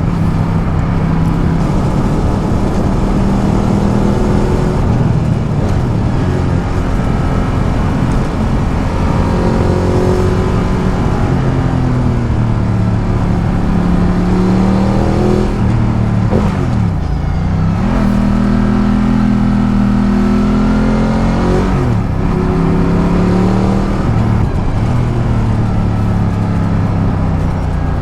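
Ducati Multistrada 1200's L-twin engine under way on the road. The revs climb steadily several times as it accelerates. About halfway through, and again some five seconds later, the engine note drops sharply and climbs straight back, as when the revs fall and recover around a gear change.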